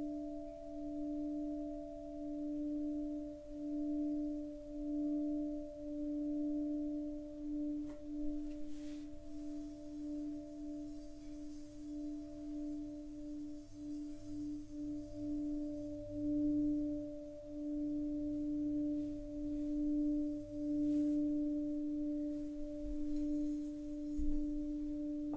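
Singing rin (Japanese bowl bell) sounding a steady, sustained low tone with higher overtones above it, pulsing in a slow wobble about once a second.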